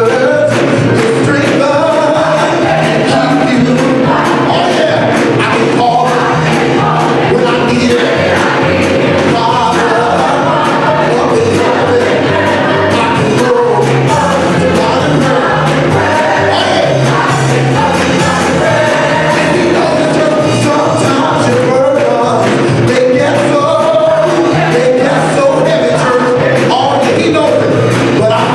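Gospel music: voices singing over a bass line and a steady drum beat.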